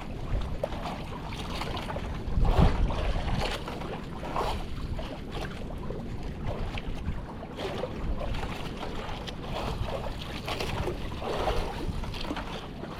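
Gusting wind buffeting the microphone, with choppy sea water washing against a small boat, in irregular surges; the strongest gust comes about two and a half seconds in.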